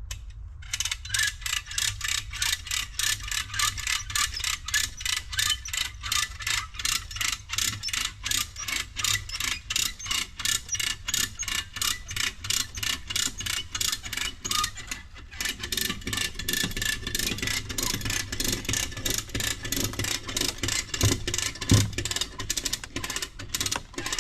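Hand ratchet puller being worked to draw a fence straight: its pawl clicks steadily at about three clicks a second, pausing briefly partway through, with one louder knock near the end.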